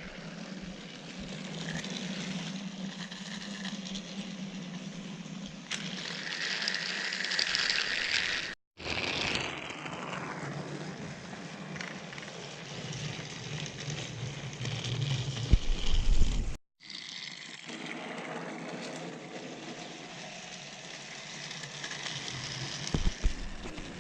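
Battery-powered Trackmaster toy train engines running on plastic track: a steady small-motor whir with wheel and track rattle. The sound cuts out for a moment twice.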